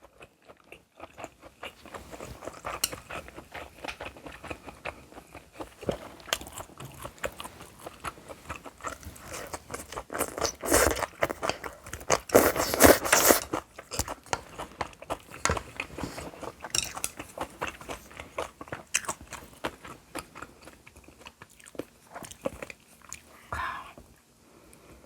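Close-up eating sounds: a person biting and chewing Korean food, with wet clicks and crunches throughout and the loudest crunchy bites around the middle.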